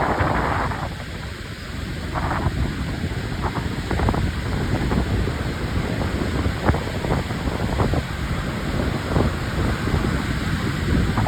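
Strong, gusty wind buffeting the microphone with a constant low rumble and frequent short pops, over surf crashing against a pier, with a hissing surge near the start.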